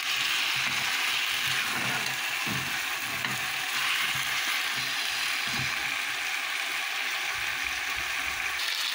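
Raw chicken pieces sizzling in a pot of hot oil with sautéed onion and tomato, a steady frying hiss, while a silicone spatula stirs and turns them with soft irregular scrapes and knocks.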